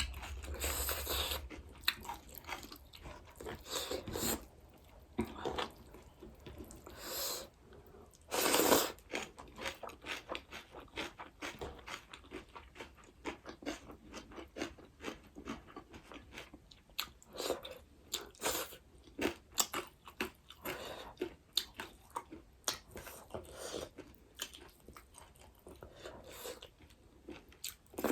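A person eating rice and curry close to the microphone: steady chewing with many small mouth clicks, several a second, and one louder noisy burst about nine seconds in.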